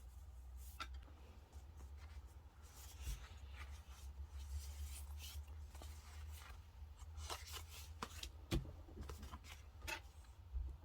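Scattered small taps, clicks and brief scratchy rubs of paper and stationery being handled at a desk, over a steady low hum.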